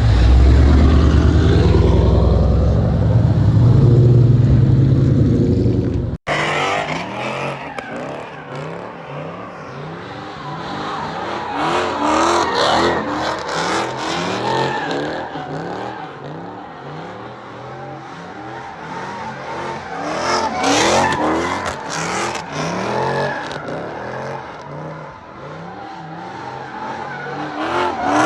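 Car engines revving and tires squealing. A heavy low engine rumble in the first six seconds cuts off abruptly, then repeated rising and falling revs and squeals follow.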